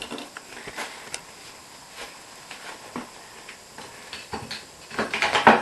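Hand tools (screwdrivers and Torx bits) being picked up and set down, with scattered light clicks and knocks and a denser clatter about five seconds in.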